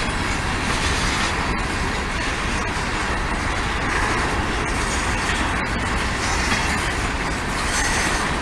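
Freight train cars rolling past with a steady rumble and wheel noise on the rails.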